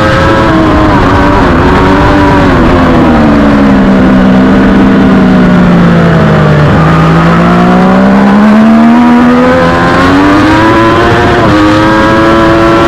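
Triumph Daytona 675R's inline three-cylinder engine at racing pace: the revs fall steadily under braking to a low point about seven seconds in. They then climb again on the throttle, with a quick drop in pitch near the end as it shifts up a gear.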